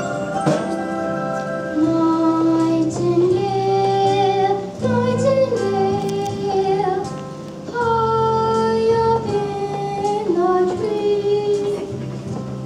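A child singing a slow song solo, holding long notes, over a steady instrumental accompaniment whose chords change every few seconds.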